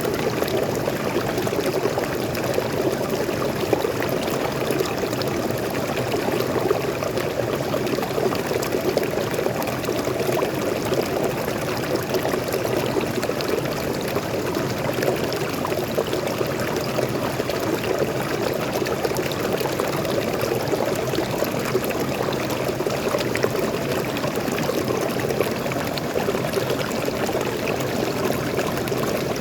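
Waterfall: fresh water pouring and flowing in a steady, even rush.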